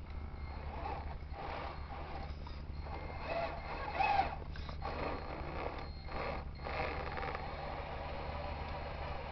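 Radio-controlled model truck's drivetrain whirring in stop-and-go spurts over a steady low hum.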